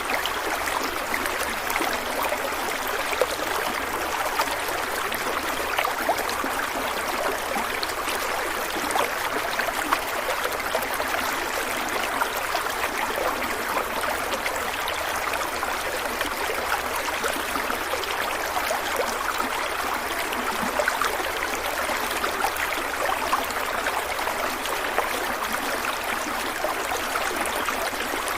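A stream of water running steadily over rocks, a constant rushing with small splashes and gurgles.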